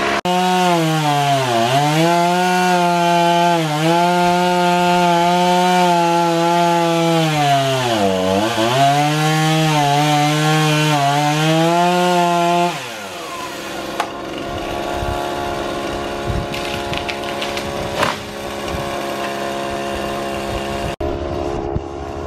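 Chainsaw running at full throttle and cutting through wood, its pitch sagging several times as the chain bogs down in the cut. About two-thirds of the way through it drops off to a quieter, lower running with a few sharp knocks.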